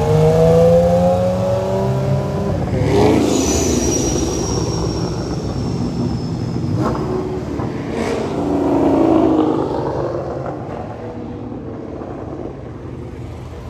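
Car engines accelerating hard as cars pull away and pass one after another, the engine note rising in pitch at the start. A second loud pass swells about eight seconds in, then the sound fades away.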